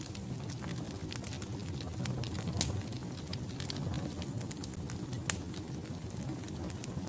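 Wood fire burning in a fireplace: a steady low rumble of the flames with irregular sharp crackles and pops from the logs, two of them louder, about two and a half seconds in and again past five seconds.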